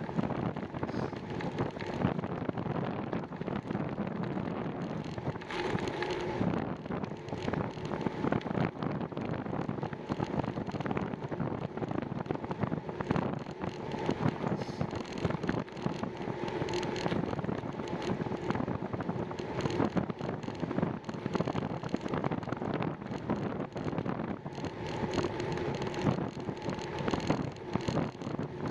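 Wind buffeting the microphone of a camera on a moving bicycle, with frequent small knocks and rattles from the ride.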